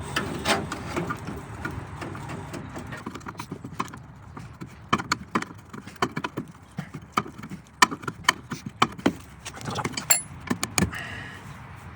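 Irregular metallic clicks and taps of hand tools working the hydraulic brake hose loose from the rear brake backplate, thickest in the second half, over a low steady hum in the first few seconds.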